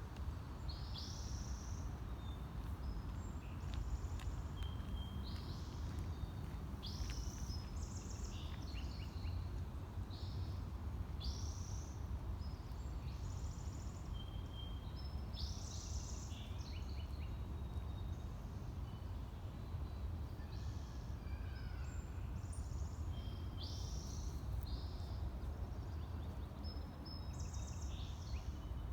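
Birds chirping, short high calls repeating every second or so, over a steady low rumble.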